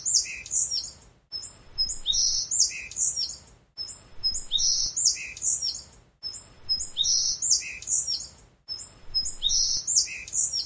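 Birdsong: the same short phrase, a brief high whistle followed by a quick cluster of chirps and falling notes, repeated identically about every two and a half seconds with a short silent gap between repeats.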